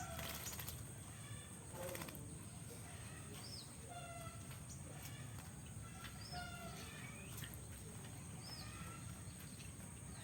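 Oriental magpie-robin (kacer) in a bathing cage, giving short chirping calls repeated every second or two, with a few brief flutters or splashes between them.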